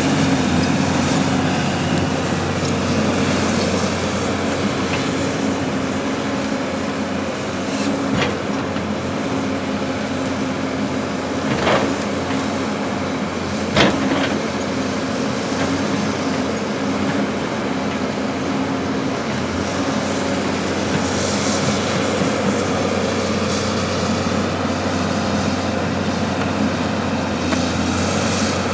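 Diesel engine of a heavy earthmoving machine running steadily, with three sharp knocks in the middle stretch, the last the loudest.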